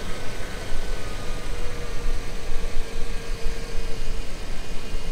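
1999 Toyota Land Cruiser's 2UZ-FE V8 idling just after starting, with a steady whine over the engine noise. The power steering pump is newly replaced, and the owner says this annoying whine is still there.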